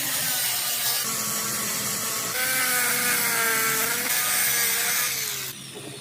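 A power tool running against a steel axle shaft, a steady hissing grind with a whine over it. The whine wavers, then slides lower and fades near the end as the tool winds down.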